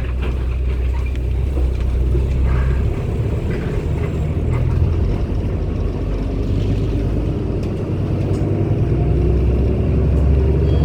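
Cummins ISB Euro 6 280 PS diesel engine of a 2016 Daewoo NEW BS090 city bus running under way. The engine's low drone shifts about three seconds in, then its note climbs steadily through the second half as the bus picks up speed.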